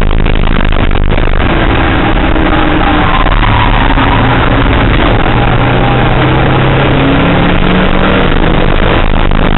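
Car engine heard from inside the cabin under hard acceleration on track, loud, with road and wind noise. Its pitch climbs steadily as it pulls up through the revs in one gear.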